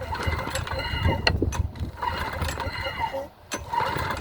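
Briggs & Stratton Quantum engine of a John Deere JS25 walk-behind mower being pull-started with its recoil starter, cranking over with a short break about three seconds in, its auto choke freshly unhooked from the thermostat arm.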